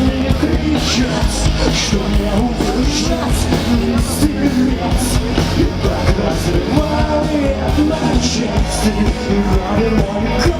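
Live rock band playing loudly: a full band sound with heavy drums and repeated cymbal crashes, over a strong low end.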